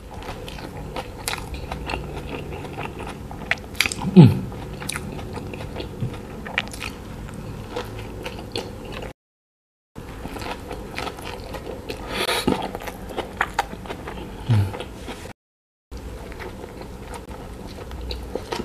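Close-miked wet chewing and mouth smacks of a man eating a soft, saucy burger. A short low falling sound comes about four seconds in and a fainter one near fourteen seconds. The sound drops out to dead silence twice for a moment.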